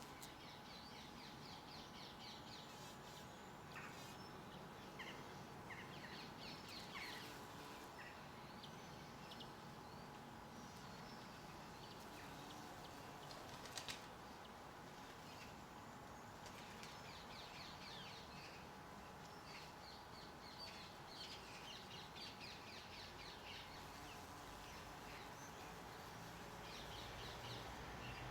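Garden birds chirping and twittering in short repeated calls, faint, with a brief sharp sound about fourteen seconds in.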